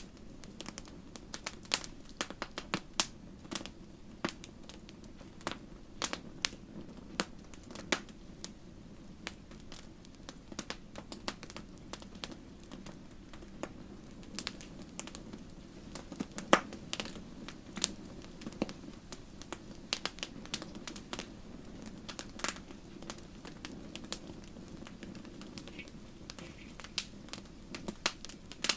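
Wood campfire crackling and popping: many irregular sharp snaps over a steady low rush of burning, with one louder pop about two thirds of the way through.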